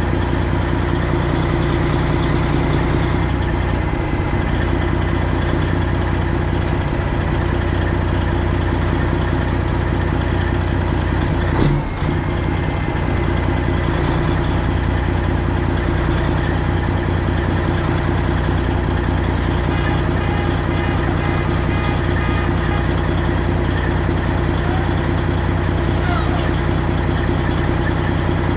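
Heavy diesel truck engine idling steadily, the Detroit Diesel Series 60 12.7-litre in a straight-piped Freightliner Classic XL. A single sharp knock about midway, and faint repeated beeps later on.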